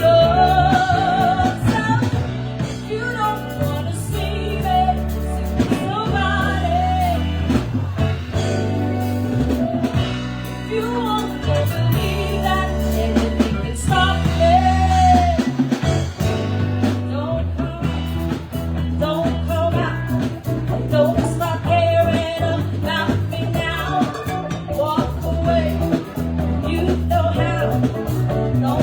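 Live band playing a song: a singer over a bass line that changes notes every second or two, with drums keeping time.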